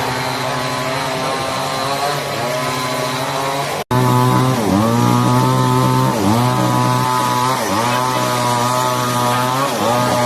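Small petrol engine running at high speed, its pitch dipping briefly and recovering every second or two.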